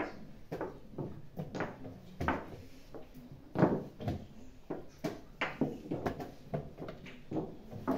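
Quick, irregular wooden knocks and clicks of chess pieces being set down and chess clocks being pressed during blitz games, well over a dozen in a few seconds, the loudest about three and a half seconds in.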